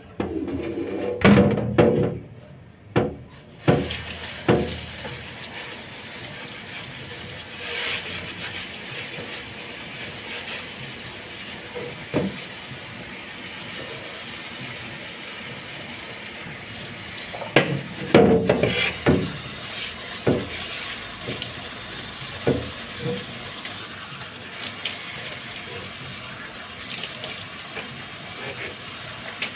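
Tap water running steadily into a sink while fridge parts are washed, with knocks and clatters of the parts being handled, loudest near the start and again just past the middle.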